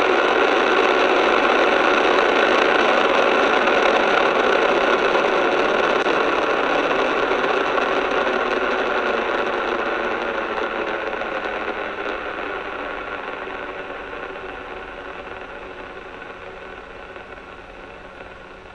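Rocket engine noise from a Falcon 9 just after liftoff: the nine first-stage engines' steady rushing roar, fading gradually as the rocket climbs away.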